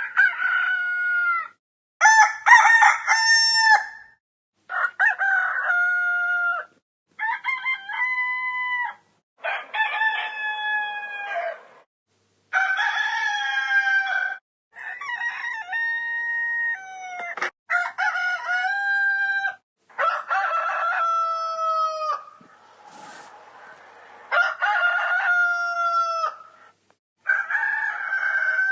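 Rooster crowing cock-a-doodle-doo, about eleven separate crows in a row, each lasting about two seconds, with short silent gaps between them. A softer hissy stretch breaks the series a little before the end.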